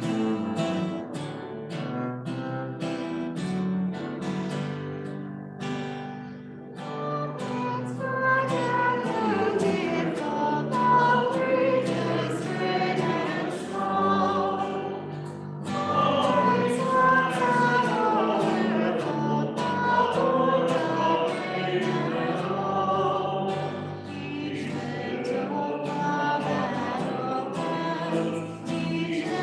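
A hymn accompanied on strummed acoustic guitar: a few seconds of strummed introduction, then a group of voices joins in singing about seven seconds in, with the guitar strumming on beneath.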